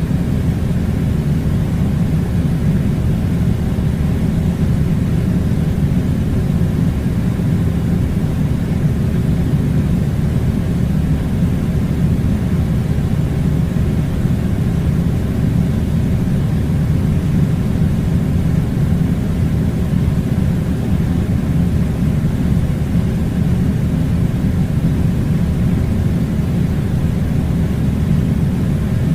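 Air conditioner running: a steady low rumbling noise that does not change.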